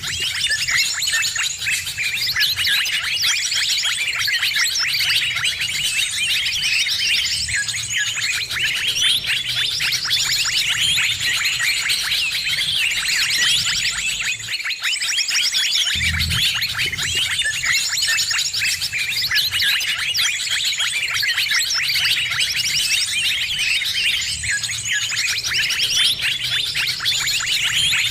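A dense, noisy chorus of many birds chirping and twittering over one another without pause: a bird-lure recording meant to draw in all kinds of birds. A low hum underneath drops out briefly about halfway through.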